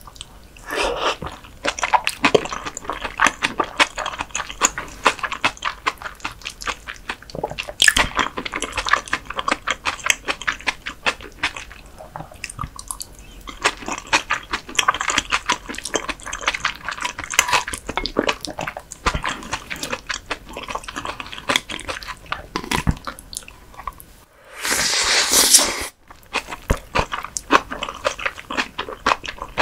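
Close-miked chewing of raw whitebait (silchi-hoe) with a spicy vegetable salad: wet, crunchy mouth sounds and small clicks, in spells with short pauses. About 25 seconds in, a louder hissing noise lasts about a second and a half.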